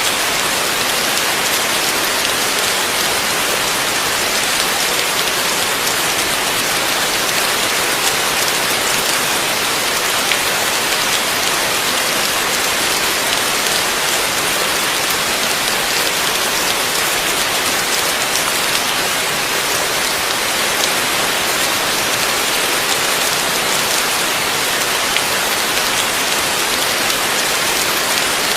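Heavy rain falling steadily: a dense, even hiss of downpour with scattered sharper drop hits.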